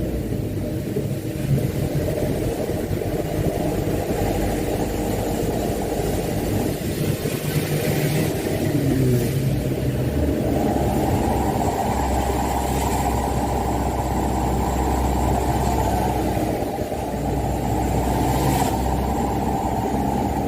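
Mitsubishi Canter dump truck's diesel engine running as the truck drives. The engine pulls harder from about halfway through.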